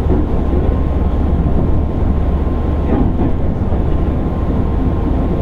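Steady running noise heard inside the motor car of a JR East 205 series 600 subseries electric train: a continuous low rumble of wheels and running gear with a faint steady tone above it. A light click of the wheels over a rail joint comes about three seconds in.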